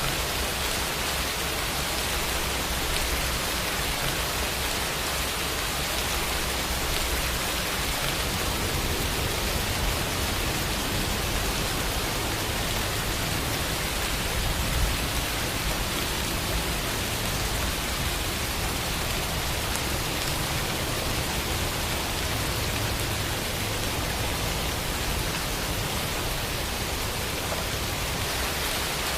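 Steady rain falling, an even hiss of many drops with no distinct individual hits.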